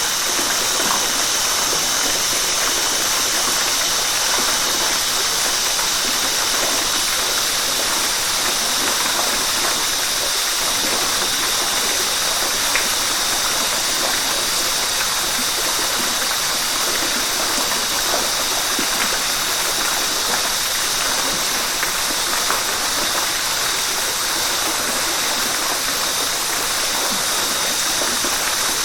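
River water rushing steadily, an even bright hiss with no break.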